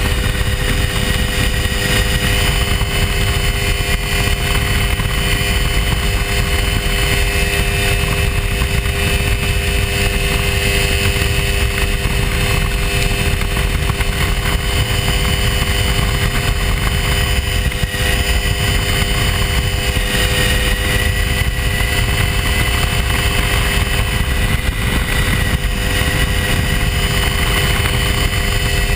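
Hy-Tek Hurricane ultralight airplane's engine and propeller running steadily in flight, a constant drone with a low rumble underneath. The pitch rises slightly about two-thirds of the way through.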